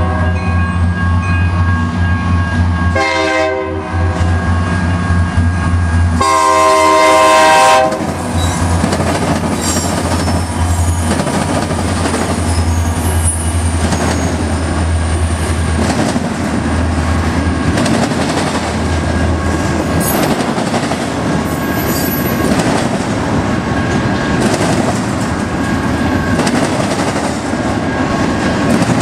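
Union Pacific diesel locomotive's air horn sounding for a grade crossing: a long blast that ends about three seconds in, a short blast, then a final long blast about six seconds in. The train then rolls through, with a low locomotive engine drone that fades after about twenty seconds and double-stack intermodal cars rumbling and clicking over the rails.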